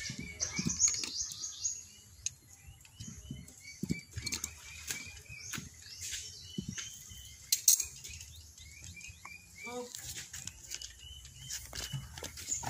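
Small birds chirping in quick, short repeated notes, with scattered sharp knocks and clicks throughout and a brief rising call about ten seconds in.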